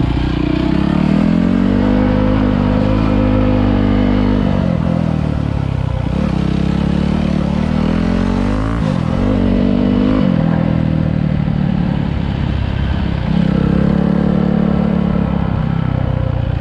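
Dirt bike engine running, its pitch climbing, holding and dropping several times as the throttle is opened and closed.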